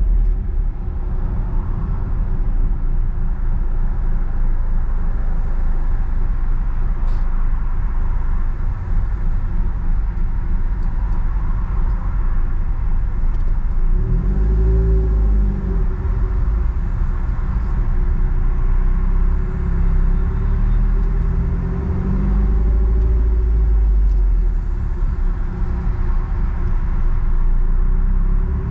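Nissan Platina's four-cylinder engine through a straight-piped exhaust, with no muffler, rumbling steadily while driving in traffic. The engine note climbs in pitch under acceleration about halfway through, again a few seconds later, and once more near the end.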